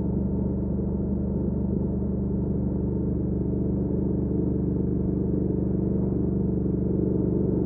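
2019 Triumph Speed Twin's 1200 cc parallel-twin engine running at a steady cruise through a Weslake Shorty Pro exhaust, its pitch holding level with no gear change. It gets a little louder about halfway through.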